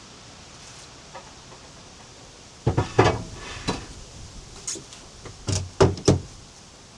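A run of sharp knocks and clatters, like hard objects being handled and set down, starting a little under three seconds in, with the loudest strikes at the beginning and end of the run.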